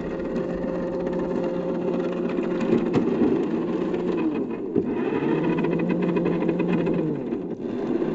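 Vehicle engine sound effect running steadily with a continuous hum, dipping briefly near the middle before carrying on.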